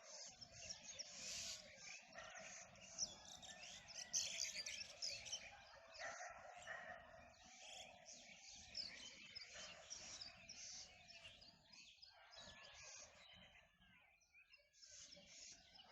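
Many birds chirping and calling at once, a dense chorus of short overlapping calls that thins out somewhat in the last few seconds.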